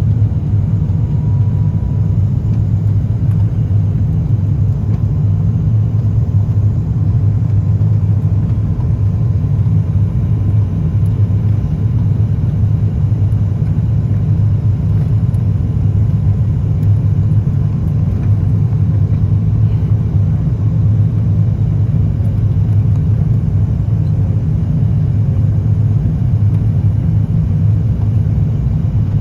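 Steady low rumble of an Airbus A350-900 airliner, heard from inside the passenger cabin in flight: engine and airflow noise at an even level, with a faint thin tone above it.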